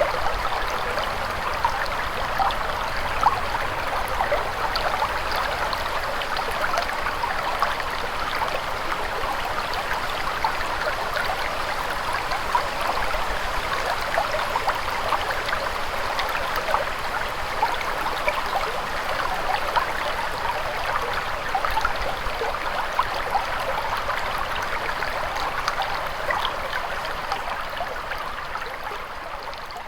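Clear spring-fed stream running steadily, babbling with many small splashes and gurgles, fading out over the last few seconds.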